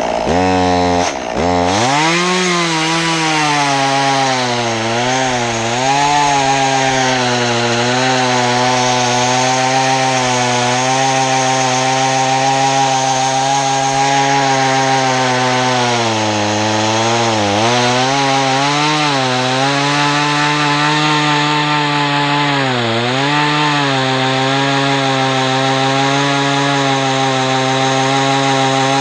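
Two-stroke Stihl chainsaw revving up about a second and a half in and then running at full throttle as it cuts through tree limbs. Its pitch sags briefly several times as the chain loads up in the wood, and it drops off at the very end.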